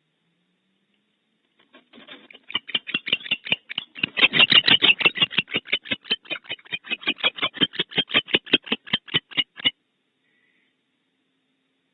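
Barn owl giving a rapid series of short chittering notes, about five a second, for some eight seconds, loudest a few seconds in and cutting off suddenly.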